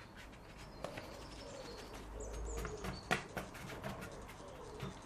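A bird cooing faintly in the background, low wavering calls repeated through the middle, with a few sharp light clicks about three seconds in.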